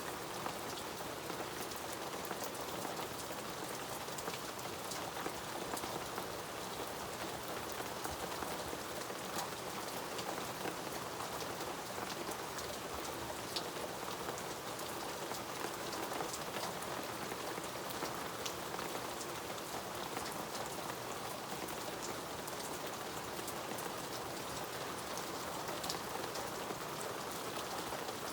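Steady rain falling, an even hiss dotted with many sharp ticks of separate drops striking.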